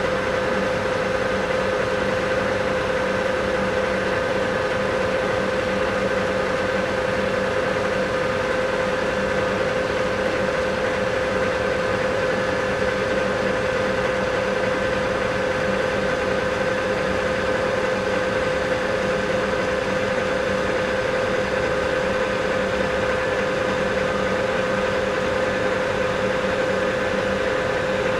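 South Bend 14-1/2 metal lathe running steadily while turning a shaft, a constant machine whine with no change in pitch or level.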